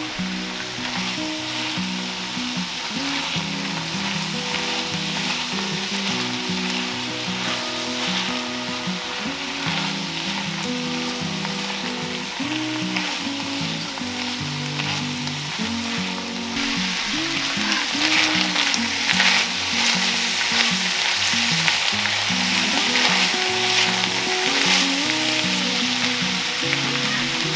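Ground hamburger, butternut squash, onion and garlic frying in an enamelled cast-iron skillet, a steady sizzle as a silicone spatula stirs it. The sizzle grows louder about halfway through.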